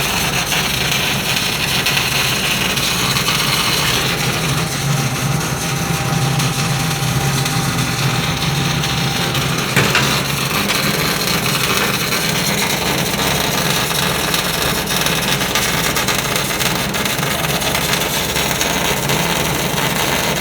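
Argon-shielded welding machine running, a steady hiss over a low hum, with one sharp click about ten seconds in.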